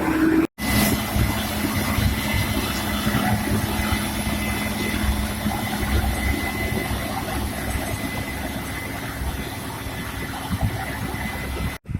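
Farm machine's engine running steadily under load, with a steady whine over a low rumble; the sound cuts out abruptly for an instant about half a second in and again near the end.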